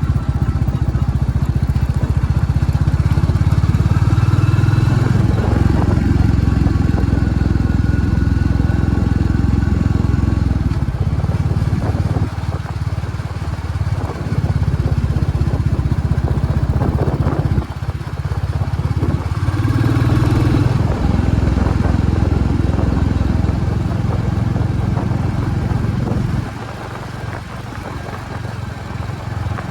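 Royal Enfield Classic Reborn motorcycle's single-cylinder engine running with a deep, steady low note, easing off and getting quieter about 26 seconds in.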